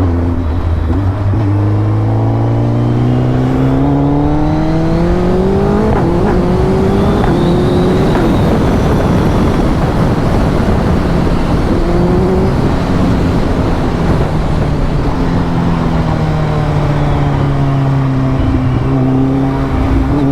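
Suzuki Hayabusa Gen 3's inline-four engine accelerating hard, its pitch climbing, breaking at an upshift about six seconds in and climbing again. Then rushing wind noise at speed swamps it for several seconds, before a steadier engine note comes back near the end.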